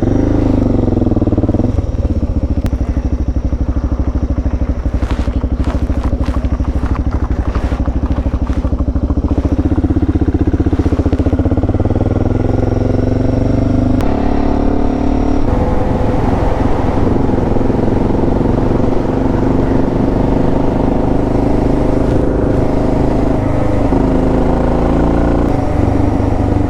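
Suzuki DR650's single-cylinder engine running steadily under way. Its pitch drops over the first couple of seconds, climbs again a little after ten seconds, and changes step near the middle, with a patch of light clicking in between.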